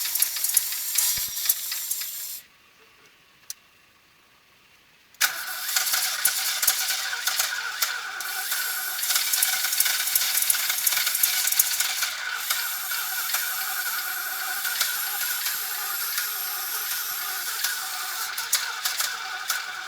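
A Ford Sierra's V8 engine running with a loud, rattly sound. It stops abruptly a couple of seconds in, there is a single click in the near silence, and about five seconds in it is suddenly running again and keeps running steadily.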